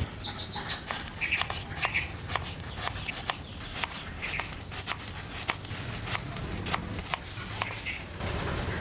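Irregular light clicks and knocks, with birds chirping in the background: a quick run of high chirps near the start, then a few short calls spread through.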